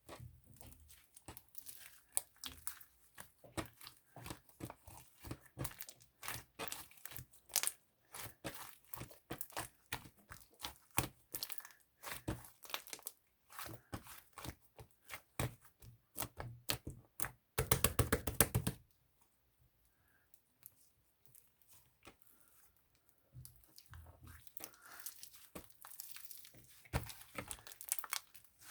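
Crinkling and rustling of crinkly material being handled close by, with a dense tearing sound about eighteen seconds in. After that it goes nearly quiet for a few seconds before the crinkling starts again.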